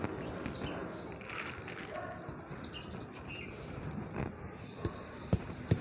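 Birds chirping over a low steady background hiss, with a few sharp clicks in the last second or so as a metal hand trowel goes into a pile of garden soil.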